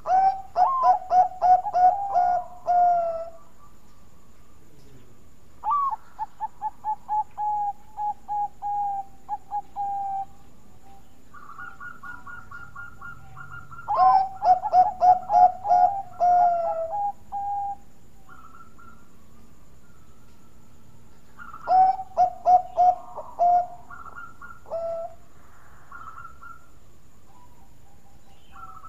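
Bangkok-type perkutut (zebra dove) cooing: bouts of rapid, evenly repeated notes lasting a few seconds each, with pauses between them, several times over. Shorter runs of higher repeated notes come between the main phrases.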